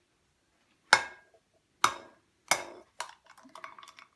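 An egg knocked three times against the rim of a jug to crack it, each a sharp knock with a short ring, followed by a run of lighter clicks as the shell is worked open.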